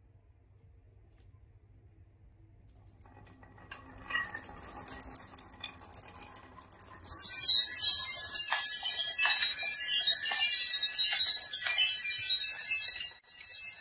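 Marbles rolling down a marble run: a faint rolling sound builds after a few seconds, then about halfway through it turns into a loud, dense clatter of many marbles clicking against each other and the track.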